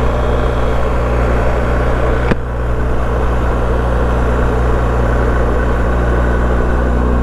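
BMW R1250GS boxer-twin engine running steadily, heard from the rider's helmet microphone with a haze of wind and road noise. A single sharp click sounds about two seconds in.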